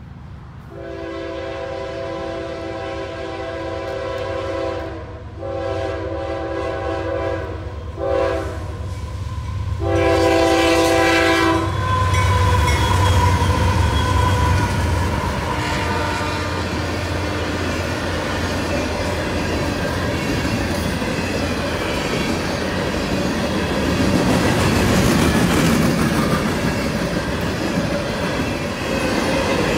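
Diesel locomotive's Nathan Airchime K5H five-chime horn blowing the grade-crossing signal: long, long, short, long. After that a coal train rolls past with a steady rumble and the clickety-clack of wheels over rail joints.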